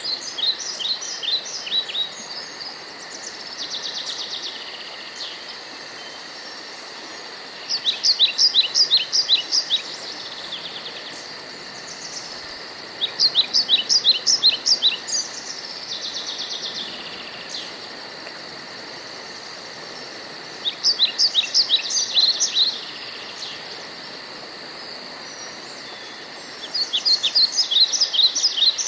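A songbird sings the same short phrase of rapid falling notes about every five to eight seconds, over a steady high hiss.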